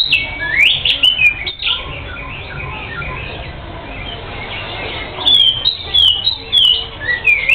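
Oriental magpie-robin (kacer) singing vigorously: a run of loud, sharp whistled notes sweeping up and down at the start, softer chirping in the middle, then another string of loud falling whistles from about five seconds in.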